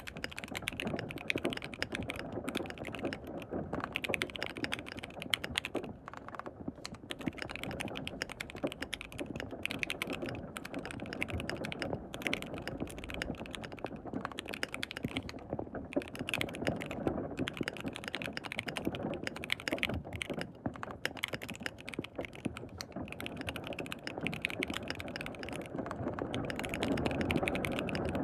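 Steady, continuous typing on a KBD67 Lite R3 mechanical keyboard with lubed switches: a dense, irregular run of keystrokes.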